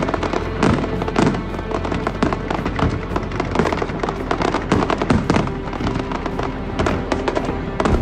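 Fireworks display: a rapid, unbroken string of shell bursts and crackling, several bangs a second, with music playing underneath.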